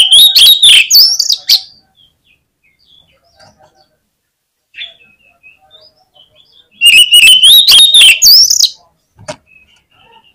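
Oriental magpie-robin (kacer) in full song: two loud bursts, one at the start and one about seven seconds in, each under two seconds of fast whistled glides mixed with scratchy notes, with faint chips between them. A sharp click comes near the end.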